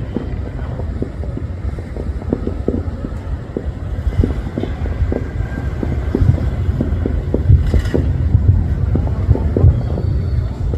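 Distant fireworks booming: a dense, irregular string of low thumps, several a second, over a continuous rumble.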